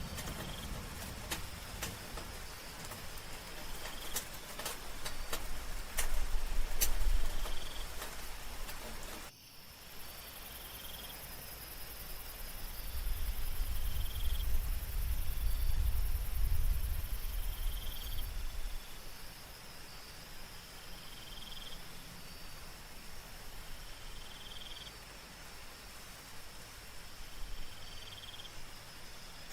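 Soft rain with scattered drop hits and a low rumble of thunder, until an abrupt cut about nine seconds in. Then a night ambience of crickets trilling steadily, with a short chirp repeating about every two seconds and another low rumble of distant thunder for a few seconds in the middle.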